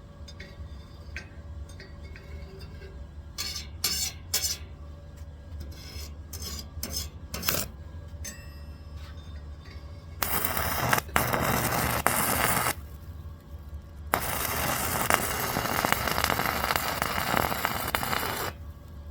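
Electric arc welding on steel: a few sharp metallic taps and clicks, then two runs of loud, steady crackling arc, the first about two and a half seconds and the second about four seconds, over a steady low hum.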